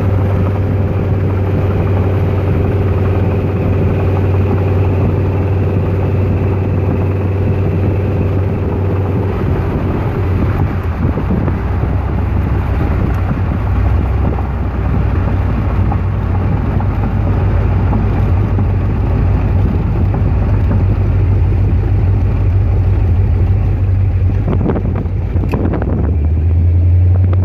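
BluePrint Engines 306 small-block Ford V8 in an open hot rod running steadily under way, with wind and road noise. The engine note drops lower about ten seconds in.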